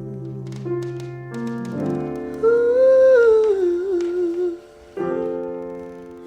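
Wordless humming, a voice sliding between held notes, over sustained keyboard or piano chords, as the intro of a slow soul song.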